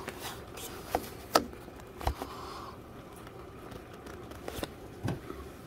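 Steady rainfall, heard from indoors, with a handful of sharp water-drop taps landing irregularly, the loudest about a second and a half in.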